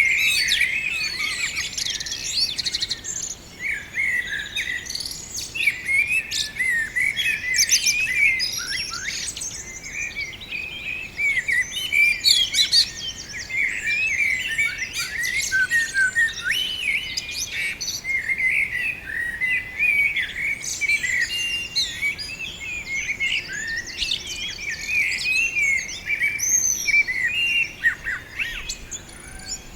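A group of small birds in a tree chirping and twittering continuously, many short high calls overlapping with no pause.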